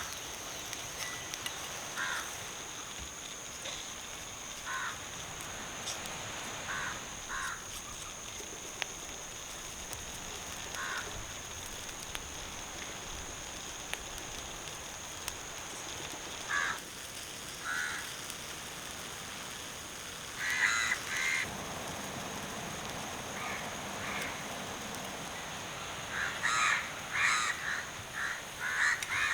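Crows cawing on and off: scattered single caws, then a cluster of several caws about two-thirds of the way in and another near the end, over a steady high-pitched whine.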